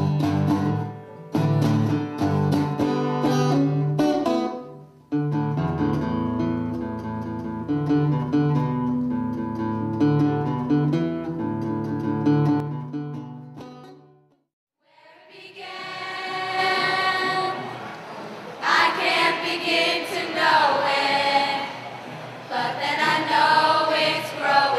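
Acoustic guitar played for the first half, broken by two abrupt cuts, then after a brief silence a group of voices singing together.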